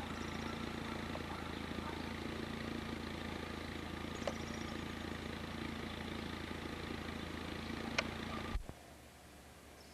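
A steady low engine hum like a vehicle idling, with a couple of faint clicks. It cuts off abruptly about eight and a half seconds in, leaving only quiet outdoor background.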